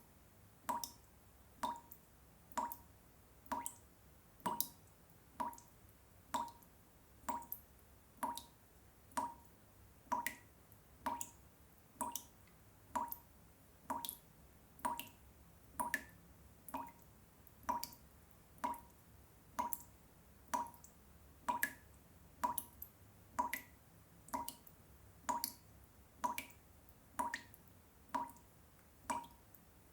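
Water dripping at an even pace, about three drops every two seconds, each a short plop into water, with a faint low hum underneath.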